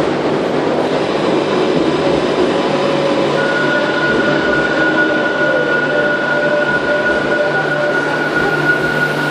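A train running in the station, with a loud, even rumble and hum. A high, steady whine starts about three seconds in and holds.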